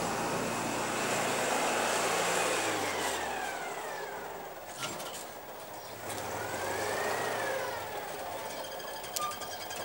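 Citroën 2CV's small air-cooled flat-twin engine running as the car pulls in slowly at low speed. A whine rises and falls twice along with it.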